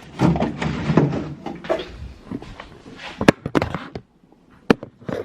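Household items being handled: about two seconds of rustling, then several sharp knocks and clicks as things are moved and set down.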